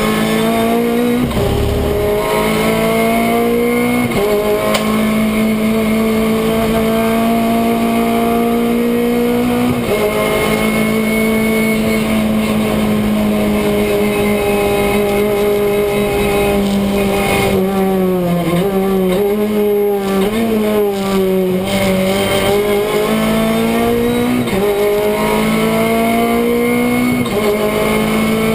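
Renault Clio Cup race car's four-cylinder engine, heard from inside the cabin, pulling hard through the gears with the pitch climbing and dropping at each upshift. About two-thirds through it falls and wavers through braking and downshifts, then climbs again with two more upshifts near the end.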